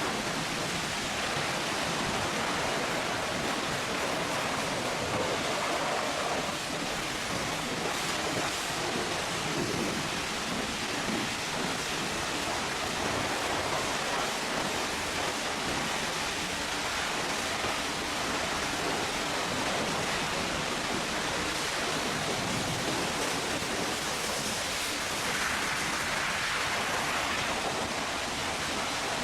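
High-pressure water spray hitting a truck's body, a steady hiss that holds level throughout.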